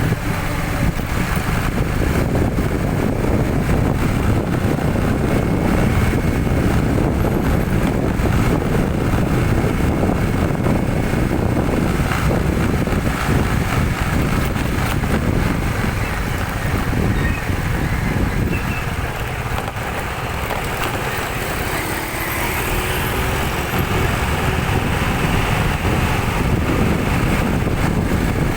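Steady engine and road noise of vehicles on the move, a large dump truck among them, heavy in the low end with a brief slight easing about two-thirds of the way through.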